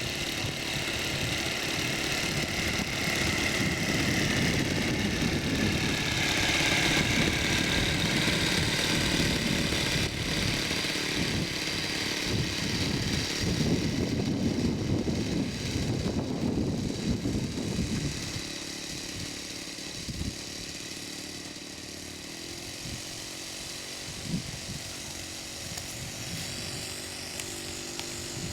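Model airplane's Saito 40 four-stroke glow engine running with its propeller, the pitch wavering as it goes, then dropping to a quieter, steadier sound about two-thirds of the way through.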